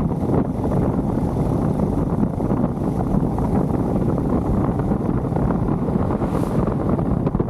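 Wind buffeting the microphone on a moving motorcycle, a steady loud rush mixed with the bike's engine and road noise.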